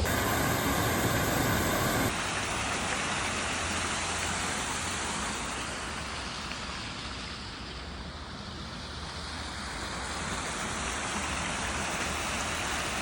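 Steady rushing road noise heard while riding a bicycle along a road, with passing traffic. The sound changes abruptly about two seconds in.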